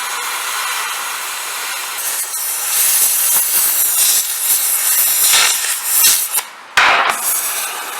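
A power tool working on steel, a steady harsh hissing noise that stops briefly about six and a half seconds in and then starts again.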